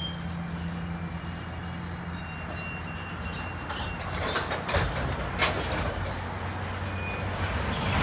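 Loaded BNSF coal train on the move: a steady low rumble with a faint high metallic squeal, and a few sharp clanks about four to five and a half seconds in.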